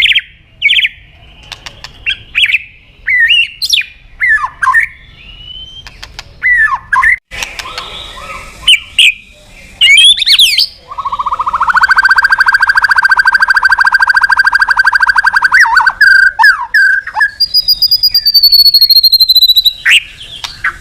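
White-rumped shama (murai batu) in full song: a run of varied whistles and chirps, then a long, rapid, buzzy trill lasting about five seconds, and a high, drawn-out whistle near the end.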